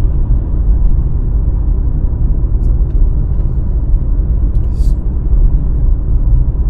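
Steady low rumble of road and engine noise from a car driving along, heard from inside the cabin.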